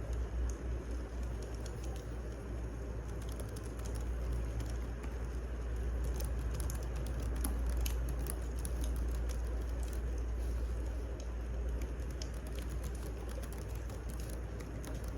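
Wood fire burning, with many irregular small crackles and pops over a steady low rumble.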